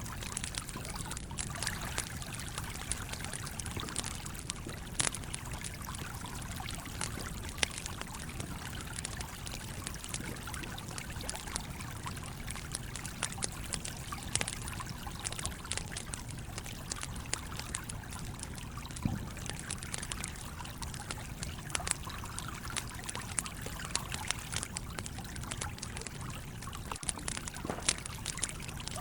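A stream flowing and trickling steadily, with a wood campfire crackling in frequent sharp pops over it.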